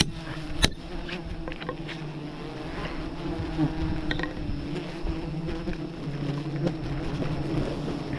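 Dense buzzing of a mass of wild honey bees around their nests, a steady droning hum, with a couple of sharp knocks in the first second.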